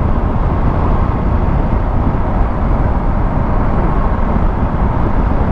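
Motorcycle underway: steady, unbroken wind and road noise.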